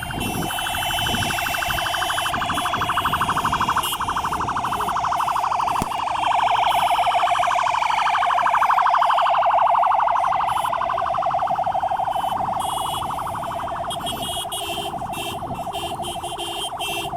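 Many women ululating together in a shrill, fast-trilling welcome, their many overlapping voices rising and falling in pitch and swelling loudest about halfway through.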